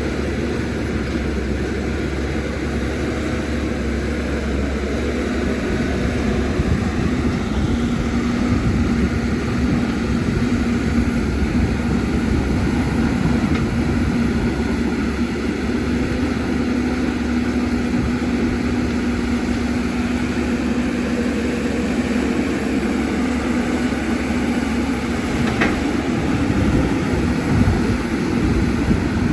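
CAT 320D excavator's diesel engine running steadily, with a constant engine hum, and a single short sharp click about 26 seconds in.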